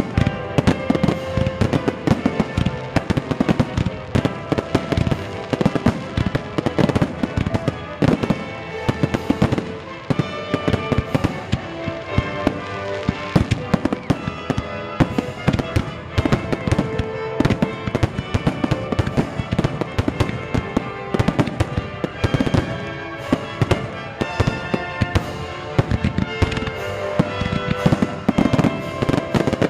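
A dense barrage of fireworks, with shells bursting and crackling several times a second, over music playing throughout.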